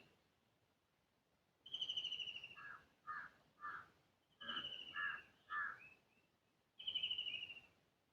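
Bird calls: three falling, rapidly pulsed trills about a second long each, with quick groups of short, lower notes between them.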